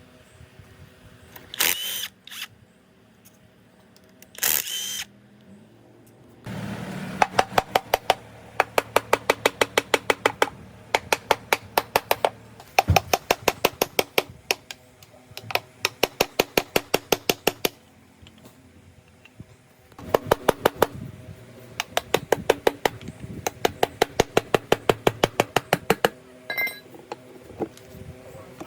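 Power impact wrench hammering in three long runs of rapid, evenly spaced clicks over a motor hum, with short pauses between runs. A few short bursts of noise come in the first five seconds.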